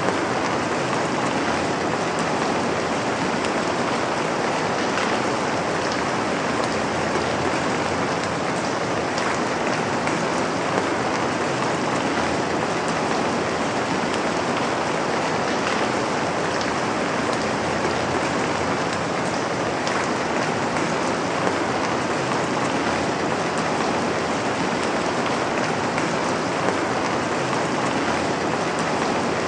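Steady rain falling on a surface, a constant even hiss with faint scattered drop ticks.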